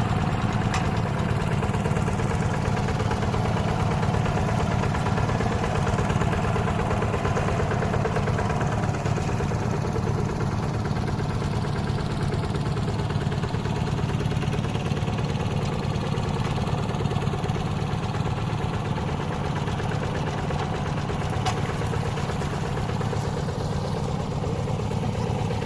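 Hand tractor's single-cylinder diesel engine running steadily with an even, rapid firing beat.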